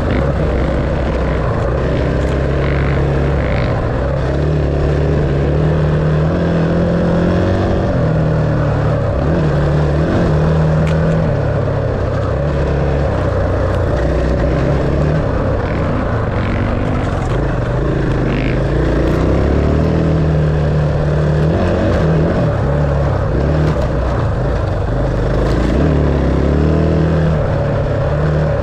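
Dirt bike engine running under way, its revs rising and falling and stepping between speeds.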